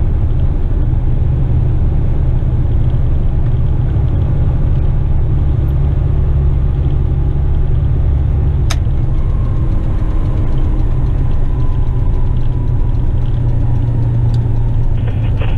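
Western Star tipper truck's diesel engine heard from the cab while driving: a steady low rumble, with a single sharp click about halfway through.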